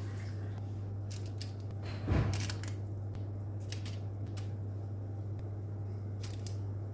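A few light clicks and taps of kitchen handling, with one louder knock about two seconds in, over a steady low hum.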